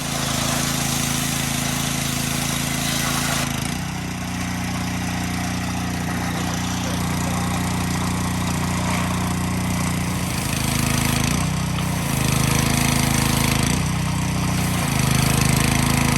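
Pressure washer running and spraying down an engine: a steady motor hum under a hiss of water spray, the hum stepping up and down in pitch several times.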